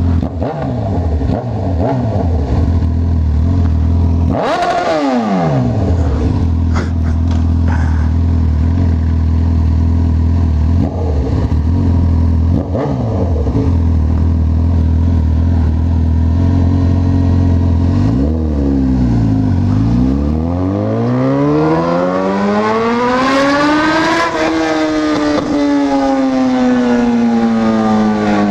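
Honda CB1000R's inline-four engine running on the move, holding a steady pitch for most of the time with a brief dip and rise about five seconds in. Near the end the revs drop, climb in a long rising whine under acceleration, then fall away slowly as the bike comes off the throttle.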